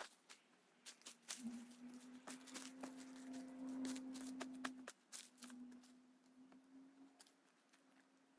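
Faint crackling of burning wood stumps: scattered sharp ticks and pops. A low steady hum grows louder about a second and a half in and drops back a few seconds later.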